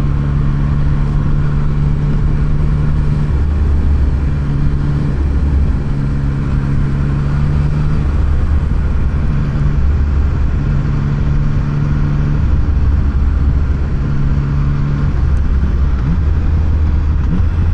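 Yamaha MT-09's three-cylinder engine running at riding speed, its steady low note shifting in pitch several times, over a continuous rushing noise.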